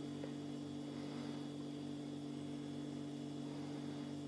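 A steady low electrical hum, made of a few fixed low tones, unchanging throughout.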